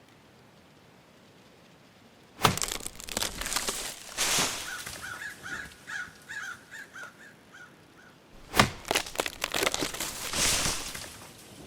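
Sound effects: a sudden sharp crack followed by irregular crackling and breaking, then a run of about ten short high chirps, then a second sharp crack with more crackling after it.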